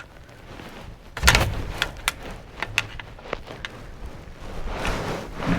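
Hand tools clinking and knocking on metal while wiring is unfastened in a truck's engine bay: one loud knock about a second in, then a scattering of lighter clicks.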